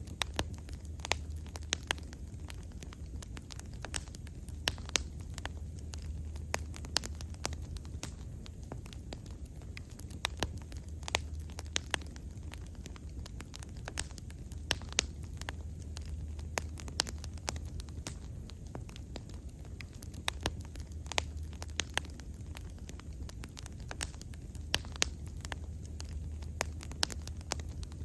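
Wood bonfire burning, with frequent irregular sharp pops and crackles over a steady low rumble of the flames.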